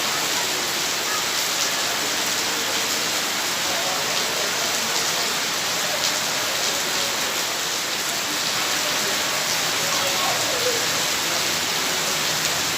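Heavy rain pouring down in a steady, even hiss, with faint voices underneath.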